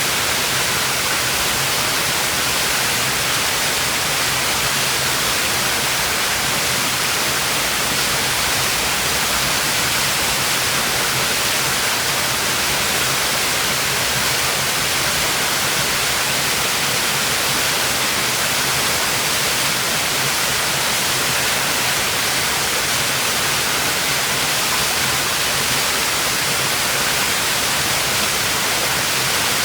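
Waterfall with water pouring steadily onto rocks, a constant rushing hiss with no change.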